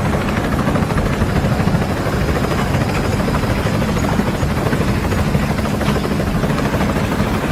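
Loud, steady mechanical rumble with a fast fluttering beat, like a heavy engine or rotor running.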